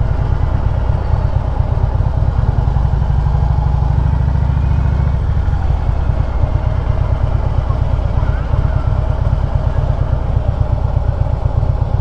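Harley-Davidson V-twin engine running steadily at low speed, its exhaust a deep, even run of pulses. The note eases a little about five seconds in.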